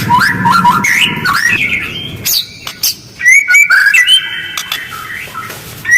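White-rumped shama (murai batu) singing a fast, rough song of rapid whistled notes and rising glides with tight pauses. About halfway through the song drops to a few sharp clicks, then loud whistled phrases start again.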